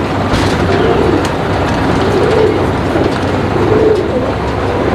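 Domestic pigeons cooing, a low rolling coo repeated about every second and a half, over a steady low hum.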